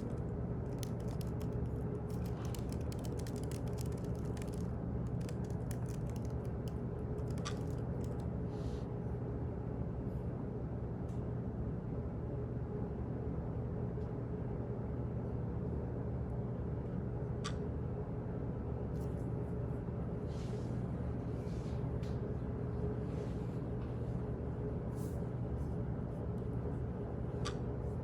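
Office background noise: a steady low hum, with bursts of small clicks like keyboard typing in the first few seconds and scattered later. A sharp single tick comes about every ten seconds.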